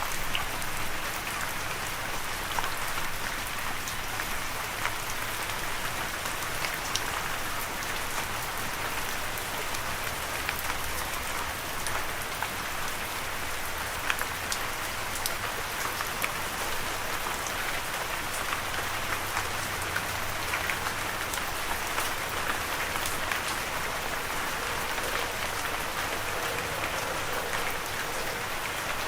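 Steady rain falling and pattering on a surface, with scattered drops ticking out of the hiss.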